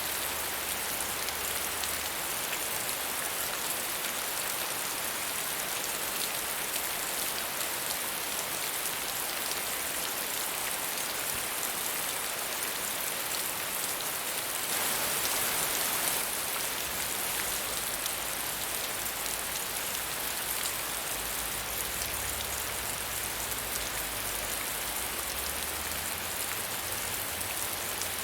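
Steady medium rainfall, with a brief swell in loudness about halfway through.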